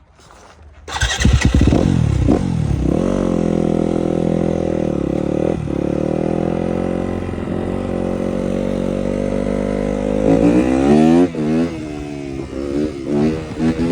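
Yamaha 250 YZF motorcycle engine starting about a second in and revving. It settles into a steady fast idle, then takes several quick throttle blips near the end.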